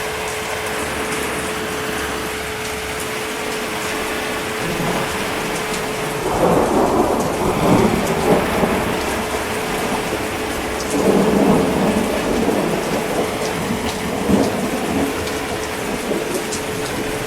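Steady heavy rain with thunder rumbling through it: a long roll starting about six seconds in, a second about eleven seconds in, and a shorter one near the end.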